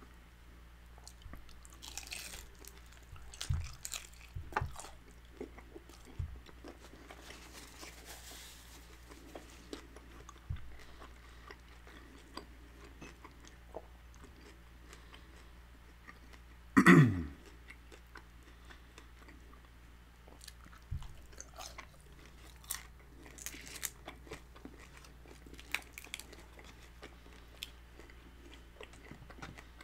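Close-miked chewing and crunching of crispy fried birria tacos, with many short crackles and mouth clicks. One brief, much louder sound with a falling pitch comes about halfway through.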